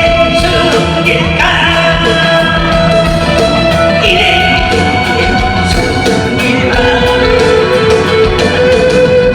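A Korean traditional folk singer (sorikkun) singing long held notes over instrumental accompaniment.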